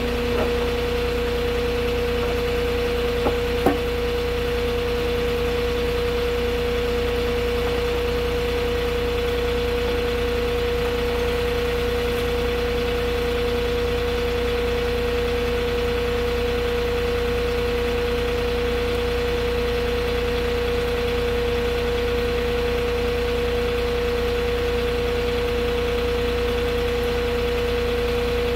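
Forklift engine running steadily, with a constant high whine over its hum. A couple of small clicks come about three and a half seconds in.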